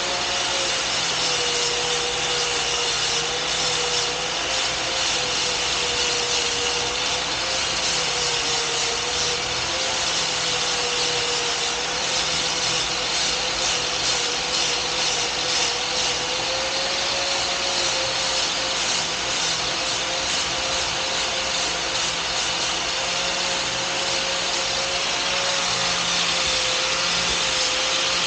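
Power grinder running steadily under load, with a whine that wavers slightly in pitch over a continuous hiss.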